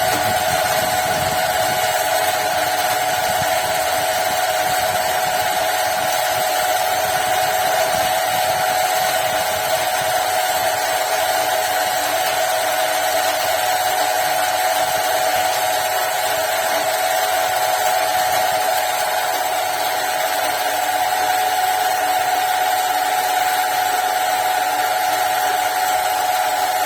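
Electric water pump running steadily, its motor giving a constant whine over an even hiss.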